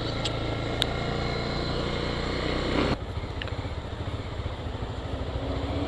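Motorcycle engine running at road speed, a steady hum mixed with wind noise. About halfway through the level drops and the hum turns into a rougher, pulsing beat.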